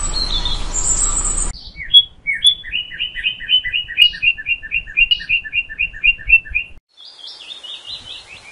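Birds chirping. After a second and a half of outdoor background hiss with a couple of high chirps, a fast, even series of two-note chirps follows, about three a second for about five seconds. Near the end comes a quicker run of falling notes.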